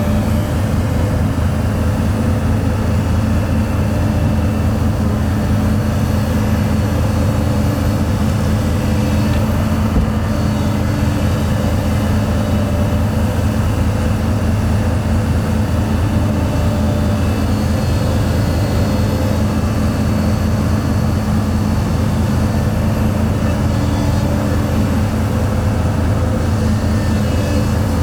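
Heavy diesel engine of earthmoving equipment running steadily at a constant speed: a low, even rumble with a fast, regular firing pulse.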